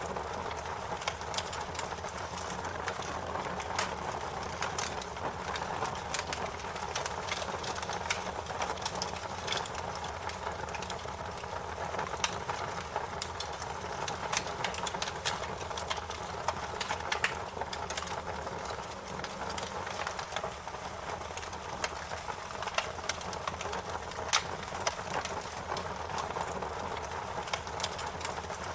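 Wood fire crackling: a steady hiss of burning with frequent sharp, irregular pops and crackles.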